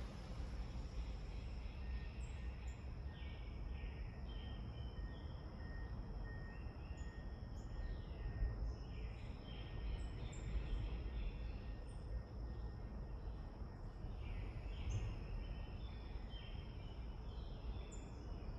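Birds giving short, falling chirps again and again over a steady high insect drone, with a low rumble of wind on the microphone. An evenly pulsed note, about two a second, runs through the first several seconds.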